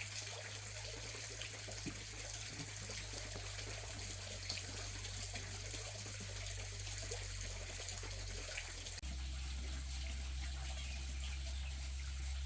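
Quiet, steady running water, trickling, over a low steady rumble; the background shifts abruptly about nine seconds in.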